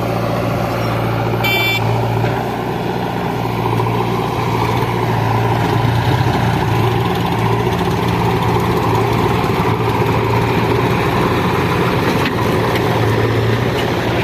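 Heavy diesel machinery engine running steadily, with a short high-pitched beep about one and a half seconds in.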